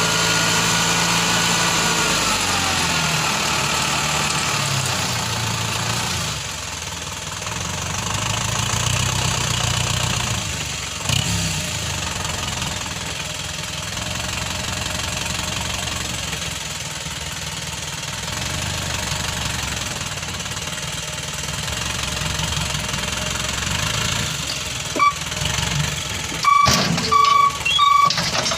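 Isuzu Elf dump truck's diesel engine running, its revs falling over the first few seconds and then settling to a steady idle. Near the end come a few short, loud sounds with a high steady tone.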